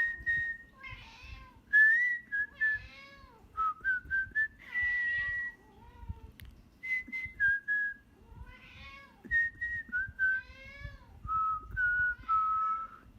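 Whistled notes alternating with a cat's meows, back and forth about half a dozen times, as if the cat is answering the whistling.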